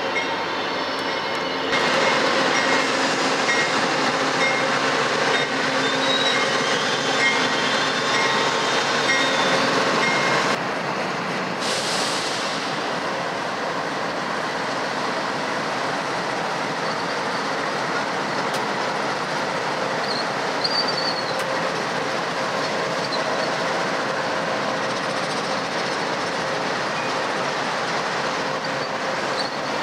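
An Amtrak diesel passenger locomotive and its train pass, with a steady engine hum over the noise of wheels on rail. About ten seconds in the sound changes abruptly to a BNSF freight train rolling by behind several GE diesel locomotives, a steady mix of engine noise and wheels on rail.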